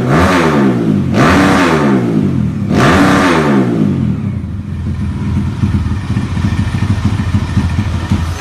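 Bored-up Kawasaki KLX single-cylinder engine breathing through an aftermarket Over Racing exhaust, blipped three times, each rev rising and falling in pitch. About four seconds in it drops back to a lumpy, pulsing idle.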